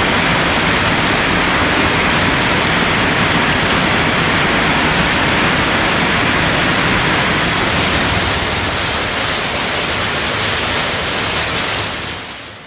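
Torrential tropical rain pouring down, a steady heavy hiss of rain that fades out near the end.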